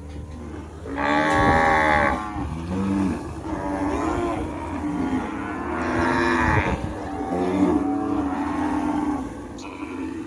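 Cattle mooing repeatedly in long, low calls, the loudest about a second in and again about six seconds in.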